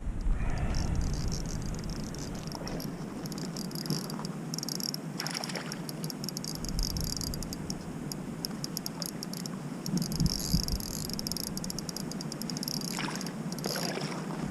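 A chorus of calling frogs and insects: a high, rapidly pulsing chirping that swells and fades, with a low wind rumble underneath.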